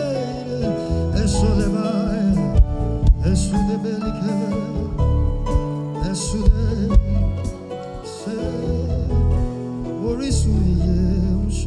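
Live gospel worship music: held chords and a low bass line under a wavering solo voice, with a few sharp percussion hits. Near the end the music settles into one long held chord.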